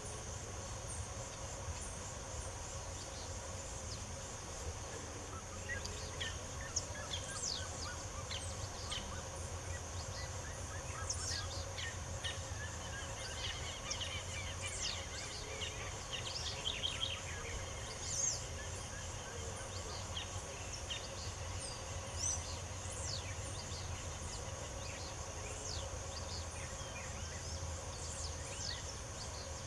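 Several small birds chirping and singing in short, scattered calls, over a steady high insect buzz and a low background rumble.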